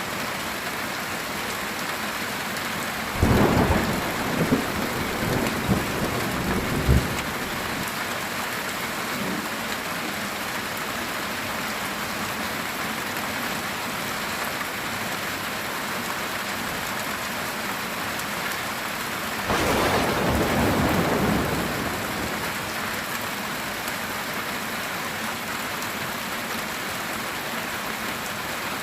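Heavy rain falling steadily on a metal tin roof. About three seconds in a sudden clap of thunder comes, with a few more sharp cracks over the next few seconds. About two-thirds of the way through a second roll of thunder lasts around two seconds.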